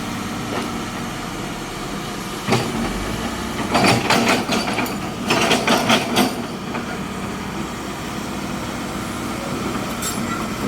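Heavy vehicle engine running steadily. There is one sharp knock about two and a half seconds in, then bursts of metallic clattering and rattling for about two seconds.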